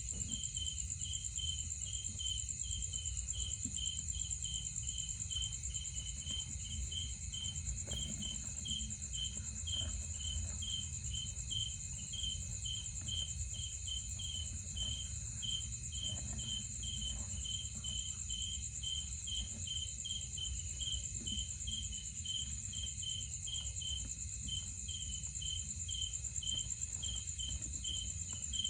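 Insects calling: a steady high-pitched trill with a lower chirp repeating about twice a second, unbroken throughout.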